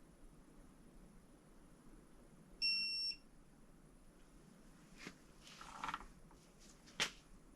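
A single half-second electronic beep from a digital torque wrench, signalling that the crankshaft hub bolt has reached its 100 N·m target torque. A few light clicks and a short rustle of tool handling follow, with one sharp click near the end.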